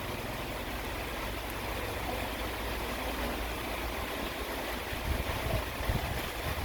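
Steady rain with a low rumble of thunder that swells about five seconds in.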